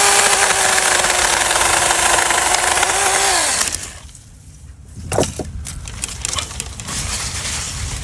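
Small battery-powered mini chainsaw's electric motor running at full speed with a steady high whine, then released about three and a half seconds in, its pitch falling as the chain spins down. Quieter knocks and rustling follow.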